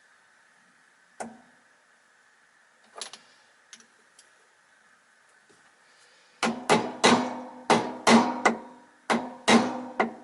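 Hammer tapping a bearing onto the end of a vacuum motor's armature shaft. A few light knocks come first, then from about six seconds in a quick run of ringing metallic strikes, roughly three a second.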